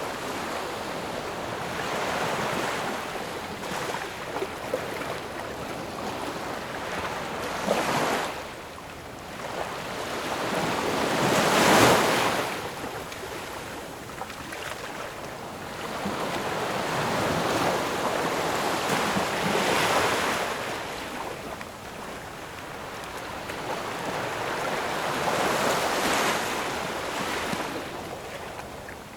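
Ocean waves breaking and washing in, in slow surges that swell and fade every few seconds; the biggest break comes about twelve seconds in.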